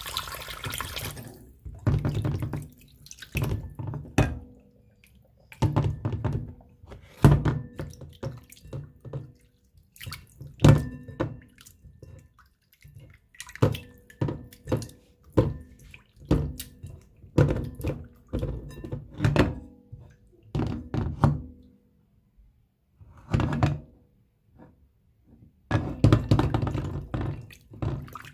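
Raw chicken breast strips being washed by hand in water and vinegar at a kitchen sink: irregular splashing and sloshing of water, with thunks and knocks as the pieces are handled against the bowl or sink, stopping and starting in short bursts.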